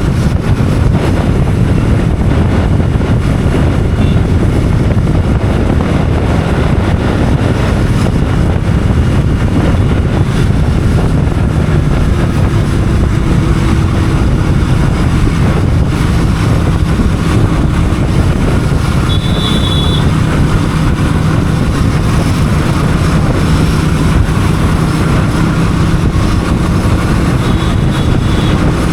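Motorcycle running at a steady cruising speed on the road, its engine drone mixed with wind rushing over the microphone.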